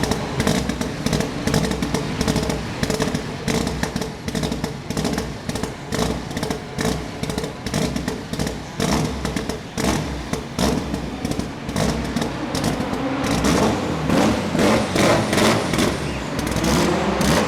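Mitsubishi Lancer Evo VIII rally car's turbocharged 2.0-litre four-cylinder engine idling roughly, with frequent irregular sharp cracks from the exhaust over a steady hum. About three-quarters of the way through it gets louder and the revs climb slightly.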